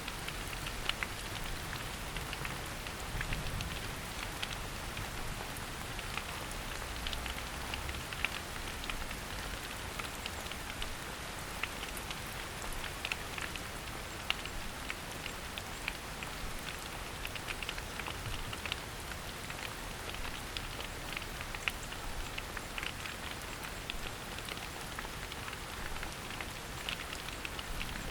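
Steady rain falling in a forest: an even hiss of rainfall with many separate drops ticking at irregular intervals.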